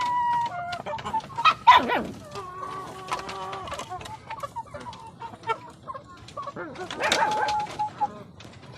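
A flock of backyard chickens clucking and squawking, with short calls throughout and a loud falling squawk about two seconds in.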